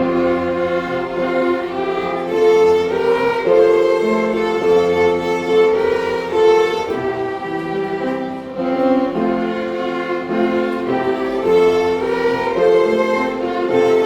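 A string ensemble of violins and cellos playing a slow hymn tune, with long bowed notes moving in harmony.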